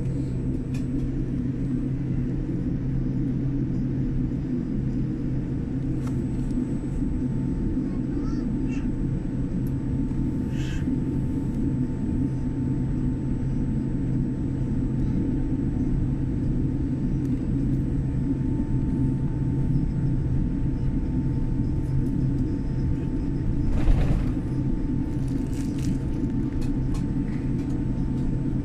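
Steady low rumble and hum of an airliner cabin on the ground before takeoff, the engines and cabin air running. There are faint scattered clicks, and one short louder knock near the end.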